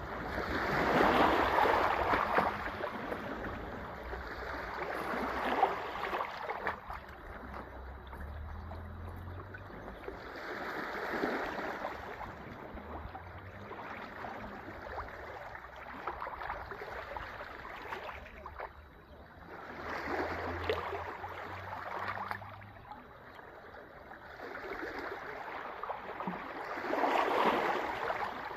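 Sea waves washing in and breaking on the shore, surging and falling back every several seconds, with the loudest surges near the start and near the end.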